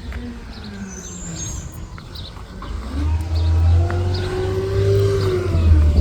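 Recycling garbage truck's engine running, louder from about halfway through, its pitch rising and then falling. Birds chirp faintly.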